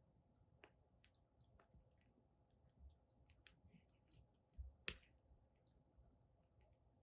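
Firewood burning in a fire pit, crackling with scattered faint pops and one louder snap about five seconds in.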